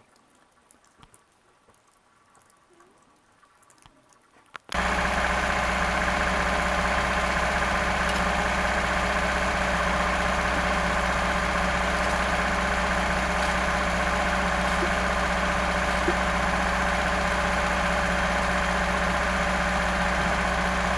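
About four and a half seconds of near silence, then an engine suddenly starts sounding and idles loud and steady, without a start-up.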